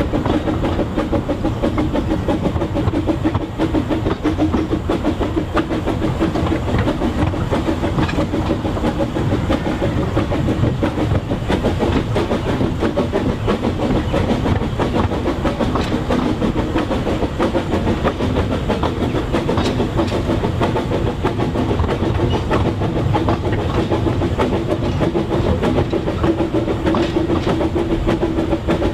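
Narrow-gauge train hauled by the Kerr Stuart 0-4-2 saddle-tank steam locomotive no.4 Edward Thomas running steadily, with continuous wheel-on-rail clatter.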